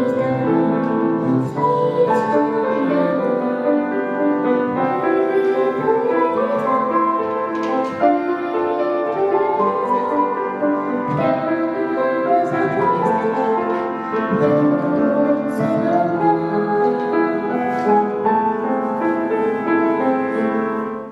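Music led by piano, playing steadily at an even level, then cutting off abruptly at the very end.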